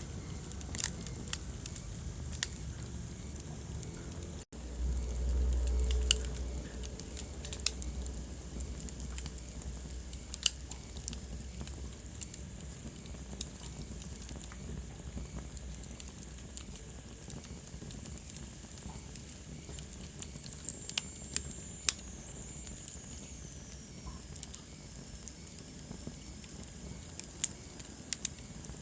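Wood fire burning in a fireplace, crackling with sharp irregular pops over a soft hiss. A low rumble of the flames swells for a couple of seconds after a brief dropout about four seconds in, and a faint hissing whistle falls in pitch a little past the middle.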